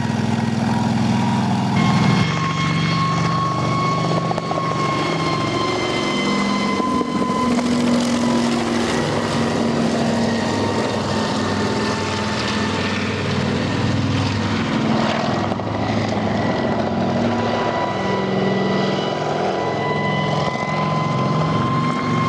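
Kamov Ka-26 helicopter's twin radial piston engines running, with a steady high whine over a shifting low engine note; the whine steps up slightly about two seconds in.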